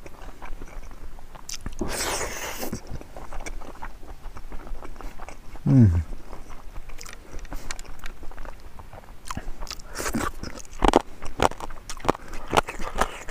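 Close-miked chewing of pig trotters and rice, with wet mouth clicks throughout that grow louder and denser near the end. A brief low sound falling in pitch comes about six seconds in.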